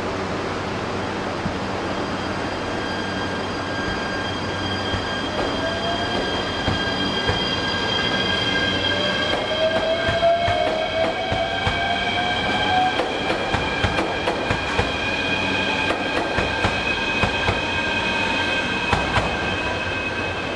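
Limited express trains rolling slowly through station pointwork: steady wheel squeal from the rails, a rising whine around the middle, and a run of rail-joint clicks through the second half.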